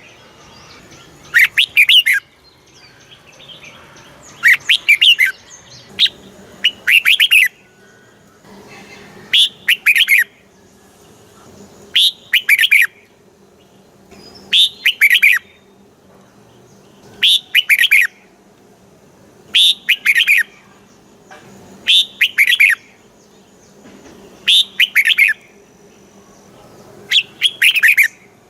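Red-whiskered bulbul singing: short, loud, warbling phrases repeated every two to three seconds, about a dozen in all.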